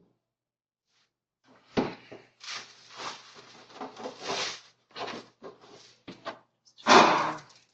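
Plastic litter-box sifting basket being handled and refitted: a sharp knock about two seconds in, then several seconds of scraping and rustling, and a loud clatter near the end.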